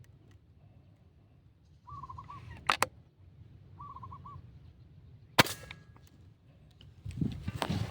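A wild dove cooing twice in short wavering phrases, then a single sharp crack of a PCP air rifle shot about halfway through. A couple of clicks come before the shot and rustling near the end.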